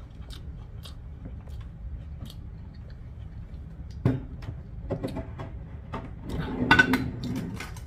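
A person chewing a mouthful of fried noodles with the mouth closed: soft, wet mouth clicks and smacks, with a sharper click about four seconds in and louder chewing and mouth sounds near the end.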